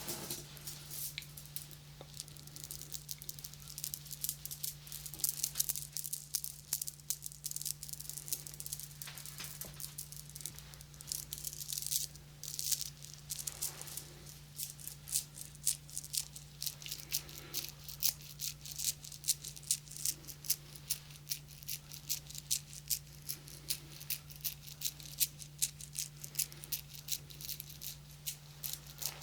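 Close-miked ASMR tapping: quick, light taps and clicks, several a second, over a steady low hum.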